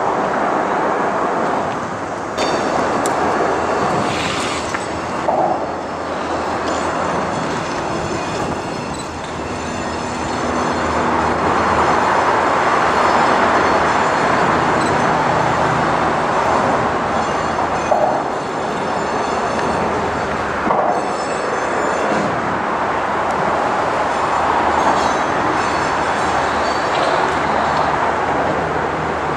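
BNSF transfer freight train passing: a steady rumble of locomotives and rolling cars. Wheels knock over rail joints and switches several times, and thin high wheel squeals come and go.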